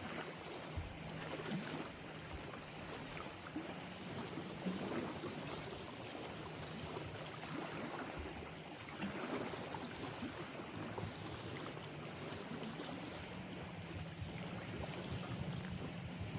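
Kayak paddle dipping and pulling through lake water, with irregular splashing and dripping and a faint steady low hum underneath.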